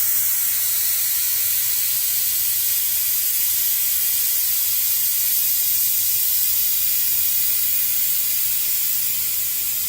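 Dual-action airbrush spraying thinned acrylic paint: a steady, high-pitched hiss of air.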